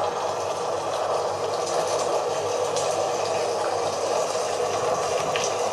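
Steady hiss of heavy rain, an even wash of falling water that does not let up.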